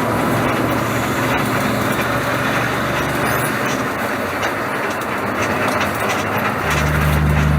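Bus running on the road, a loud steady mechanical noise. A deep steady tone comes in near the end.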